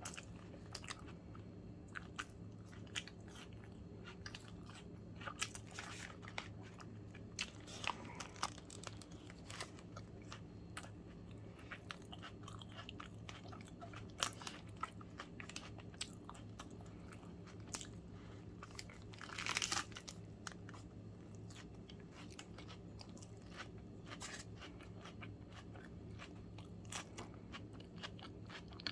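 A sandwich being bitten and chewed close to the microphone: crisp crunches and wet mouth clicks throughout, with one louder, longer crunch about twenty seconds in.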